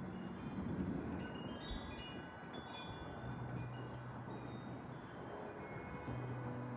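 Chimes tinkling in many short, scattered high notes over a steady hiss, with a low sustained drone that shifts pitch twice.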